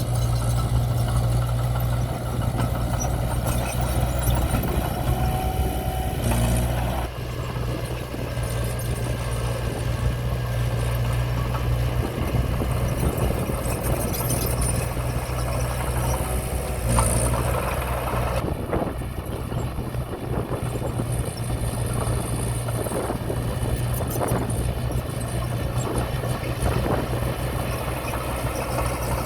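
Diesel engine of heavy earthmoving equipment running steadily with a low hum and some clatter. The sound shifts about seven seconds in and again about eighteen seconds in.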